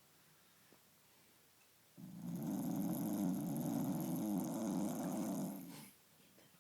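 A dog snoring: a pause, then one long snore starting about two seconds in and lasting about four seconds.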